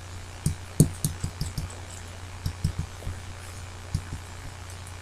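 Soft, irregular taps and knocks from handling craft supplies on a work surface, such as an alcohol-ink applicator and bottles, over a steady low hum.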